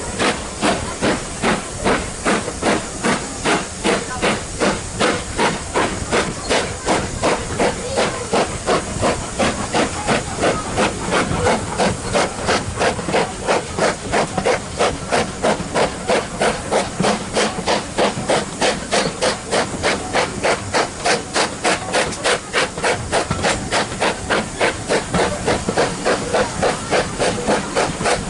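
LMS Black Five 4-6-0 steam locomotive working a train, its exhaust beating in an even chuff-chuff rhythm of about two to three beats a second over a steady hiss of steam.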